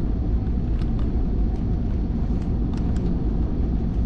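Pickup truck driving, a steady low rumble of engine and road noise heard from inside the cab, with a few faint light ticks.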